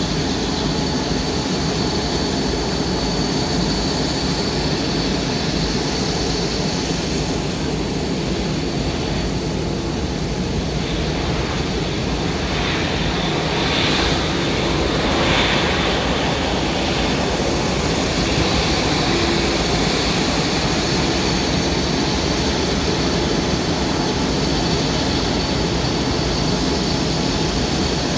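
Jet airliner engines running steadily: an even rumbling noise with a constant high whine over it.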